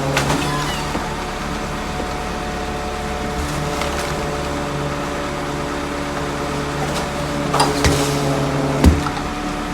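Rear-loader garbage truck running with a steady engine hum, with a few sharp knocks about three-quarters of the way through.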